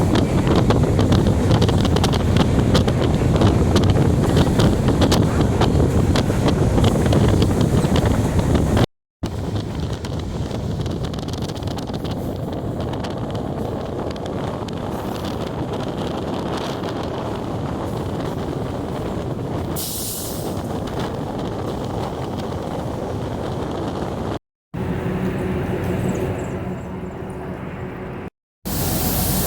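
DEMU (diesel-electric multiple unit) train running: a heavy rumble with wind buffeting the microphone. The noise breaks off abruptly three times where short clips are cut together, and is quieter after the first break.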